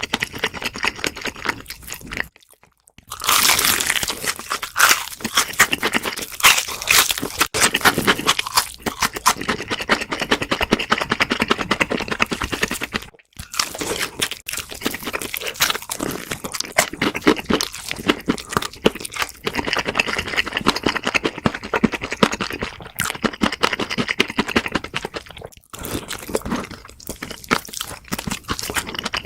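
Close-miked eating: crunchy bites and chewing, a dense run of crackling crunches with two short pauses, about two and a half seconds in and about thirteen seconds in.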